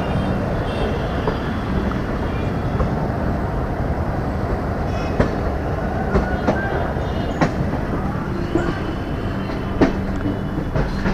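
Passenger train coach running over the rails, heard from its open doorway: a steady rumble of wheels on track with a low hum, and sharp clicks as the wheels cross rail joints and points, several of them in the second half.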